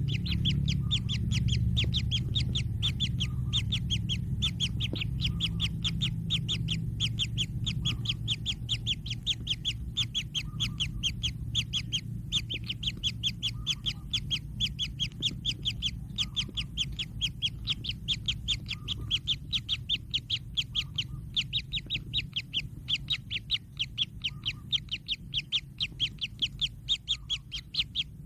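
Kingfisher chicks calling in a rapid, unbroken series of short high chirps, several a second, the food-begging calls of nestlings.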